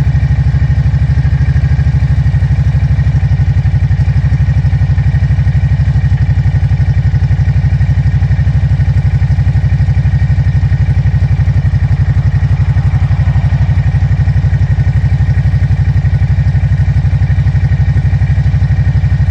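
A Kawasaki Brute Force 750 ATV's fuel-injected 749cc V-twin four-stroke engine idles steadily with an even, rapid exhaust pulse.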